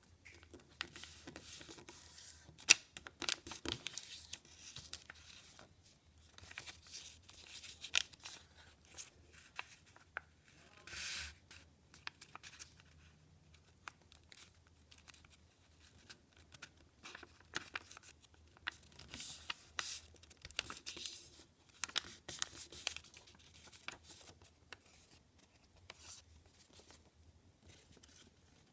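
A sheet of paper being handled and folded by hand: irregular rustling and crinkling with sharp snaps and clicks as creases are pressed. There is one longer swishing stroke of under a second about eleven seconds in.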